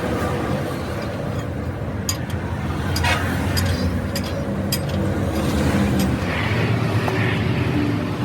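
A motor vehicle engine running steadily with a low rumble, with a few sharp clicks or taps over it.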